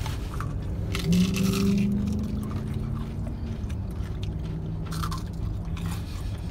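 People biting into and chewing crispy fried onion rings, with a crunch about a second in and again near the end. A long hummed 'mmm' with the mouth full comes about a second in, and a shorter one follows later.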